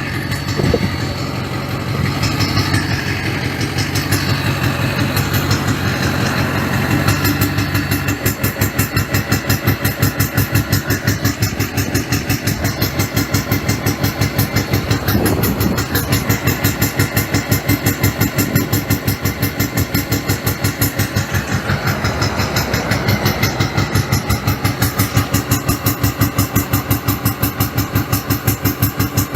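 Truck engine running, steady for the first several seconds, then with a loud, even pulsing a few times a second: the engine is failing.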